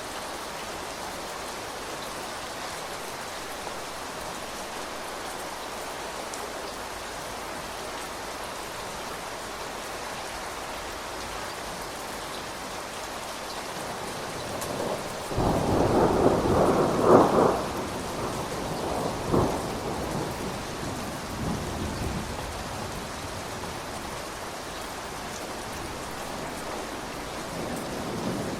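Steady rain falling, with a roll of thunder about halfway through that swells over a few seconds and trails off in a couple of smaller rumbles.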